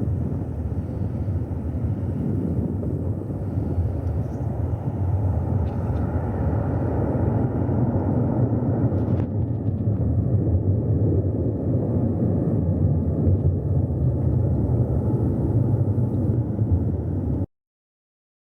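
Jet engines of a Boeing E-3A AWACS as a steady low rumble, growing a little louder about halfway through and cutting off suddenly near the end.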